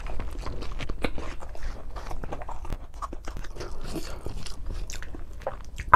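Close-miked chewing of a mouthful of rice and fish eaten by hand: a steady run of irregular wet mouth clicks and small crunches.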